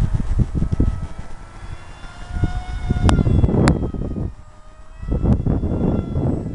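Gusts of wind buffeting the microphone in three loud swells, over the faint, slightly wavering whine of a small RC flying wing's motor and propeller.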